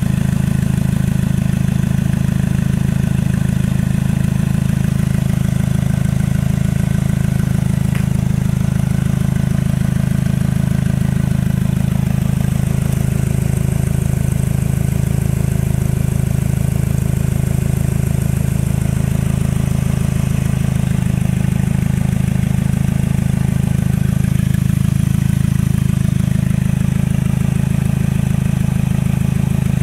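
The turbocharged Twin Cam 16 four-cylinder of a Toyota MR2 idling steadily. It has a big 50-trim turbo and runs through an open dump with no exhaust.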